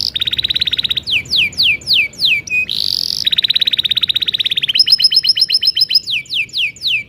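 Domestic canary singing a long rolling song, fast trills of repeated notes alternating with runs of quick descending whistles, with no pause.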